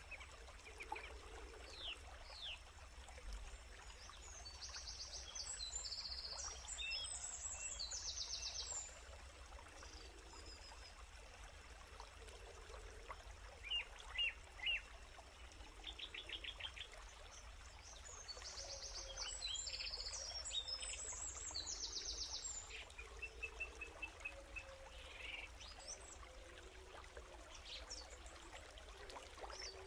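Forest birds calling: two similar runs of rapid, high trilling calls about five seconds in and again near the middle, with a few short chirps between, over a faint steady hiss.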